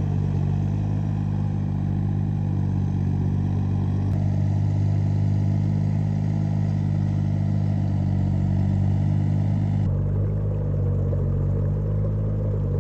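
An engine running steadily at an even speed, its low hum unbroken; its sound changes abruptly about four seconds in and again near ten seconds.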